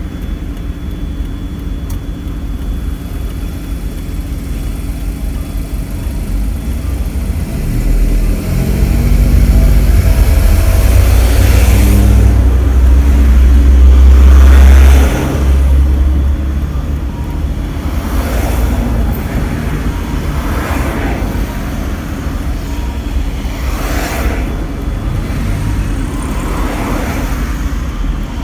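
Daihatsu Esse kei car running, with a low rumble that swells about eight seconds in, stays heavy for several seconds and drops off suddenly about fifteen seconds in. Brief swelling hisses come and go every few seconds.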